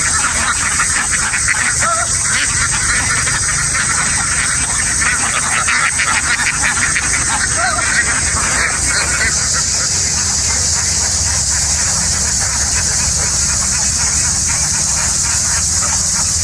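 A large flock of ducks calling and chattering together over a steady high hiss and a low hum. The chatter thins out after about nine seconds while the hiss and hum carry on.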